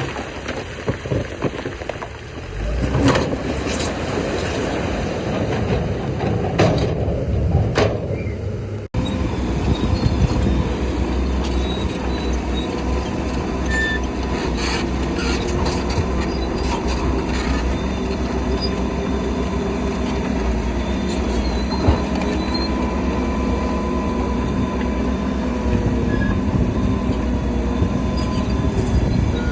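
Crawler bulldozer working: a Shantui dozer's diesel engine running under load, with the metallic squeal and clank of its steel tracks. About nine seconds in the sound cuts abruptly to a steadier engine drone with held squealing tones.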